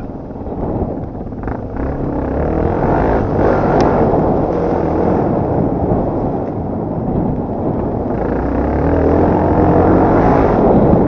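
Off-road dirt bike engine running under load as the bike is ridden, with the engine note swelling louder about three-quarters of the way through.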